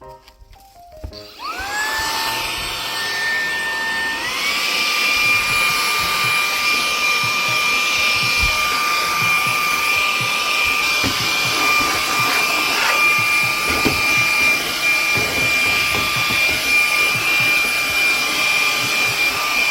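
Electric appliance motor with a rushing fan noise and a whine: it starts about a second in with a rising whine, steps up to a higher speed about four seconds in, then runs steadily.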